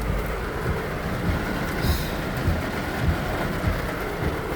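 Steady rumbling noise of a heavy downpour heard from inside a car, with irregular low thuds.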